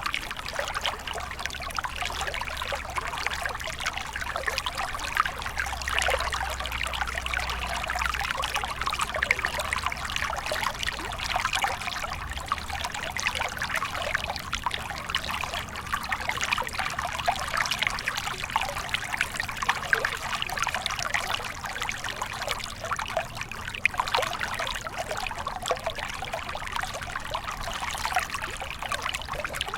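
Small stream of water trickling and splashing steadily over stones, a continuous babble of many small splashes.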